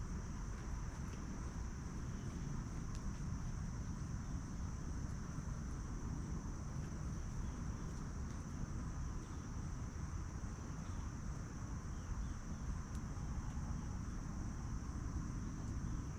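Insects calling steadily in one continuous high-pitched drone, over a low rumbling background.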